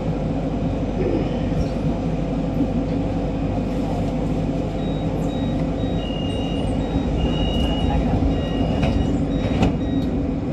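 MRT metro train running between stations: a steady rumble of wheels on rail and traction equipment. Faint high-pitched tones pulse on and off in the second half, and a single sharp click comes near the end.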